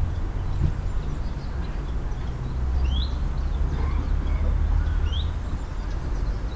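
A steady low rumble with small birds calling over it: two short rising chirps about two seconds apart, and fainter calls around them.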